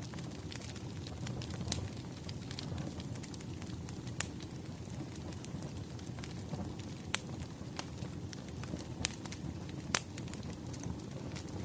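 Wood fire crackling: a steady low rush of burning firewood with scattered sharp pops, the loudest about four seconds and ten seconds in.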